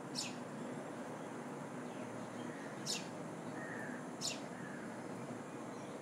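Small bird giving three short, high chirps, each sliding down in pitch, spread over a few seconds, over a steady background hiss.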